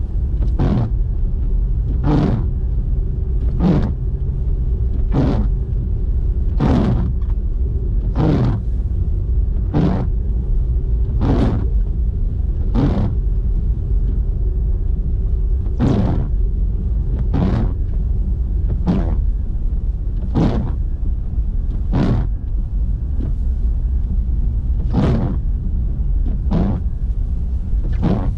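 Car cabin noise while driving: a steady low rumble of the engine and of the tyres on snowy road. Short swishing sweeps recur about every one and a half seconds, like windscreen wipers running at a fast setting to clear falling snow.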